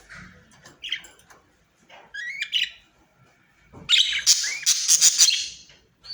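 Pet budgerigars chirping: a few short rising chirps, then a loud burst of rapid chattering calls about four seconds in.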